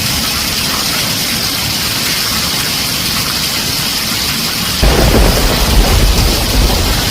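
Heavy rain falling on a tin roof as a steady hiss; about five seconds in, a loud low rumble of thunder sets in and carries on.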